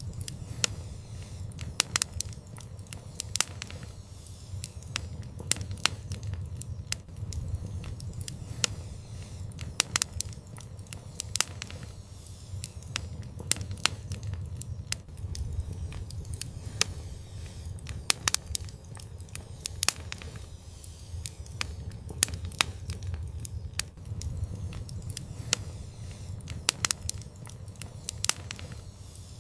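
Fire in an outdoor fireplace crackling steadily, with frequent sharp pops and snaps over a low, even rumble of the flames.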